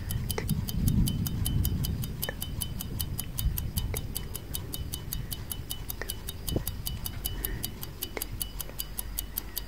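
Clock tick-tock sound effect: a fast, even run of sharp ticks, with a few scattered louder clicks and a low rumble in the first couple of seconds.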